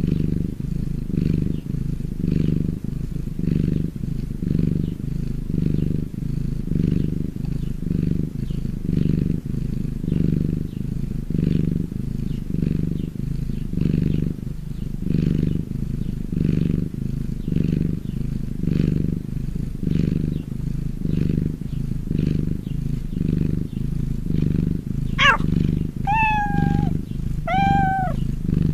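A domestic cat purring, a steady low rumble that swells and fades with each breath, about one pulse every three quarters of a second. Two or three short meows with falling pitch come near the end.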